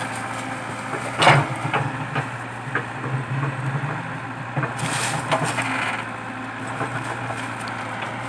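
Komatsu PC80 excavator's diesel engine running steadily under load while a eucalyptus stump is torn out, with cracking and splintering of wood. A loud crack comes about a second in and another about five seconds in.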